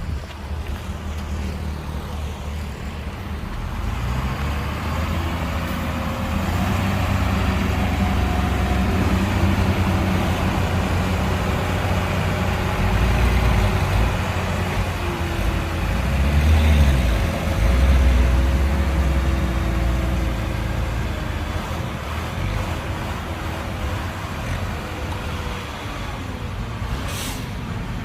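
Heavy diesel engines of earthmoving machinery, a dump truck and bulldozer, running under load; the engine note builds through the middle, revs up and back down, then settles. A short hiss near the end.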